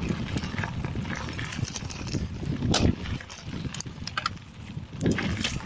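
Mountain bike riding over a dirt forest trail, picked up by the action camera's microphone: a low rumble of tyres and ride noise with irregular sharp clicks and rattles as the bike goes over bumps.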